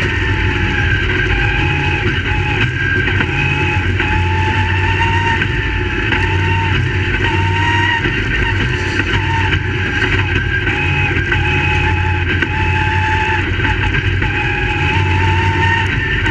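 Crate late model race cars' V8 engines running hard, the engine note rising and dipping as the drivers get on and off the throttle.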